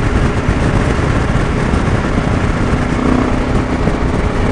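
Motorcycle riding at speed: steady wind rush and road noise over the microphone, with the engine running underneath.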